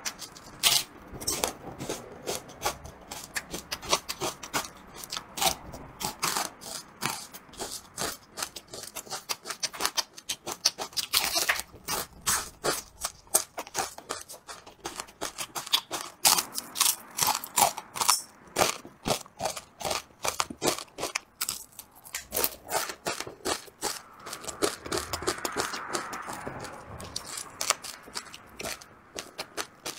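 Close-miked eating of braised duck head: a dense, irregular run of crunching bites and wet chewing clicks.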